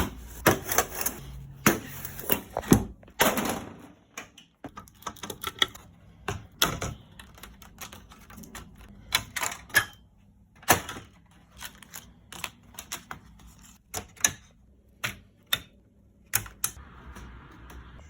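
Irregular clicks and knocks of hand work on a television's backlight: small tools and plastic or metal parts being handled. The clicks come thick and fast in the first few seconds, then more sparsely.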